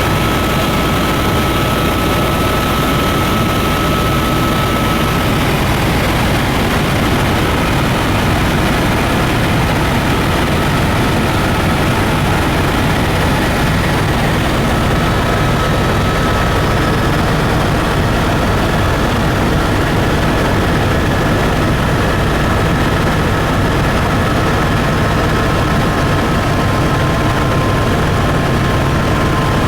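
Tour airplane's engines and propellers running steadily in flight: a constant, even noise with a faint steady tone.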